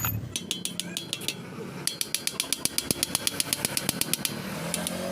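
Rapid, evenly spaced metallic clicks, about eight a second, from a hand tool working on the alternator during a bearing replacement. There is a short run in the first second and a longer run from about two seconds to four seconds in.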